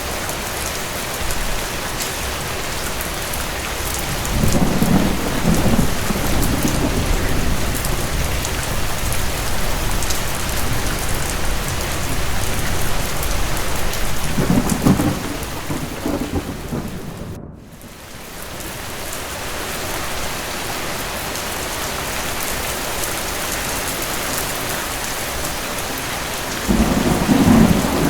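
Steady heavy rain with rolls of distant thunder: low rumbles about five seconds in, around fifteen seconds, and again near the end. The whole sound drops away briefly about two-thirds of the way through, then returns.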